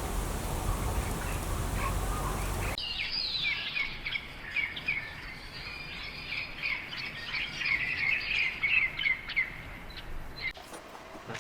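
Steady outdoor noise with a low rumble that cuts off abruptly about three seconds in. It is followed by a dense chorus of many birds giving short, high chirps all at once for about seven seconds, which then stops near the end.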